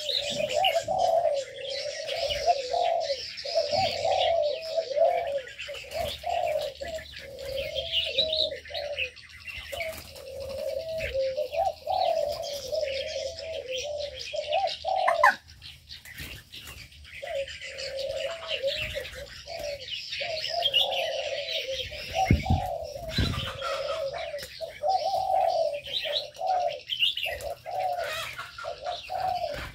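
Zebra doves cooing in repeated phrases over a near-continuous twitter of high chirps from smaller aviary birds; the cooing breaks off briefly about halfway through.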